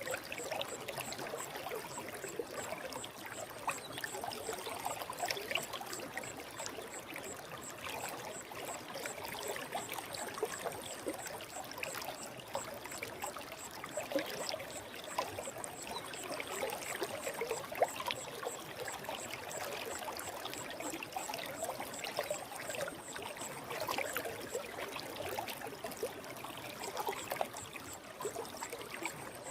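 Forest stream running steadily over rocks, a continuous trickling and bubbling of water.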